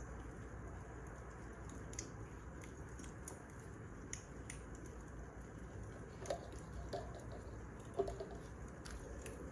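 Wood fire burning: a steady low rush with scattered small crackles, and a few louder pops in the second half.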